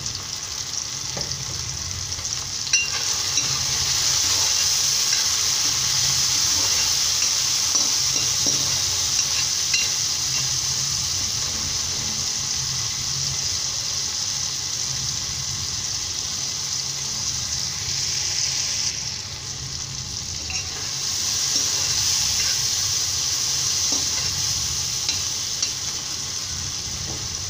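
Onion-and-tomato masala sizzling in hot oil in a kadhai, stirred with a steel ladle that scrapes and taps the pan now and then. The sizzle grows louder about three seconds in and eases briefly about two-thirds of the way through, as the salted tomatoes fry down.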